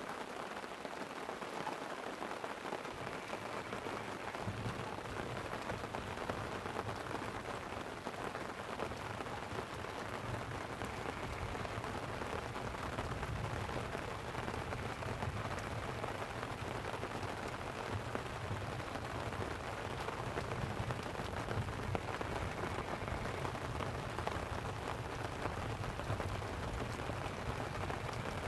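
Light rain pattering on a tent, an even hiss flecked with drops. About four seconds in, a low rumble of distant rolling thunder comes in under the rain and carries on.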